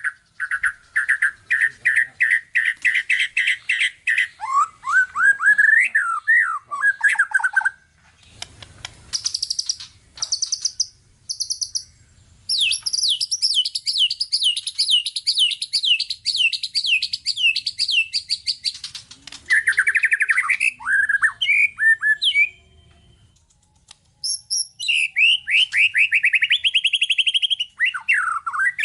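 White-rumped shama (murai batu) singing a varied, phrase-rich song. It gives long runs of fast repeated notes, slurred whistled glides and some higher sharp notes, with short pauses between phrases.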